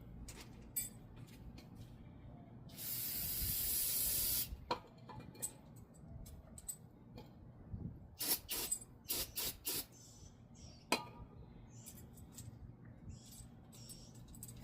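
Aerosol brake cleaner sprayed in one hissing burst of nearly two seconds, about three seconds in. It is followed by a run of sharp metallic clicks and taps a few seconds later as the brake hardware is handled.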